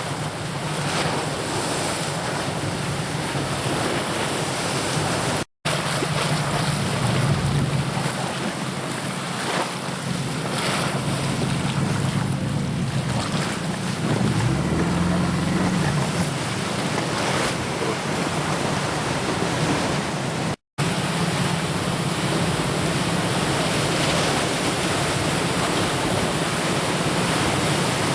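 Sea waves and wind rushing over the microphone, an even steady noise with a low hum underneath. The sound cuts out completely for an instant twice.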